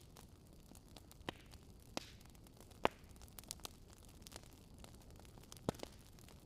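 Fireplace fire crackling: a faint, steady hiss with scattered sharp pops, the loudest about three seconds in.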